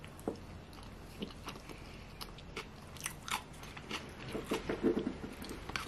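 A person chewing a mouthful of sushi roll: soft wet smacks and small clicks of the mouth, getting busier about four seconds in.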